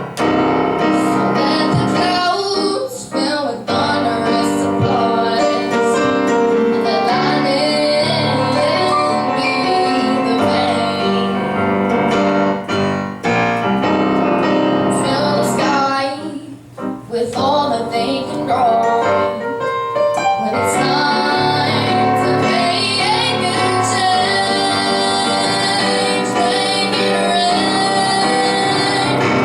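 A teenage girl singing a ballad over piano accompaniment, with a brief drop in the music about halfway through.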